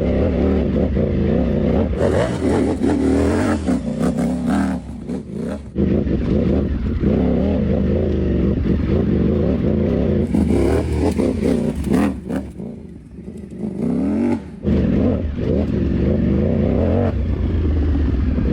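Ducati Panigale V4 V4 engine with a loud aftermarket exhaust, revving up and down under load as the bike is ridden off-road; the throttle eases off about twelve seconds in, then the engine picks up again. A rushing hiss rides over the engine at times. The rider finds it very loud and feels it running a little strange just off idle, which he puts down to the new exhaust.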